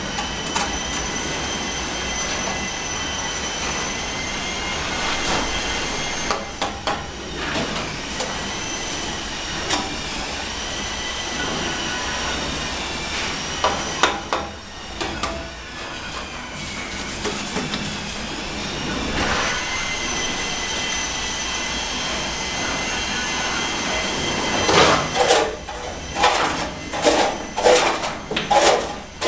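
Power-tool motor whining steadily at a fixed pitch, dropping out briefly a few times. Near the end come a quick run of sharp knocks and scrapes.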